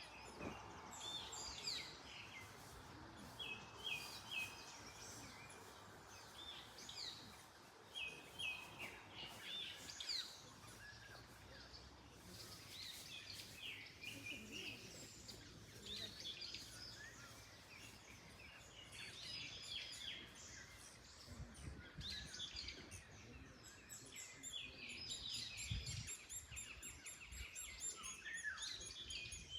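Several songbirds chirping and singing in short, repeated phrases throughout, over a faint steady rush of wind in trees.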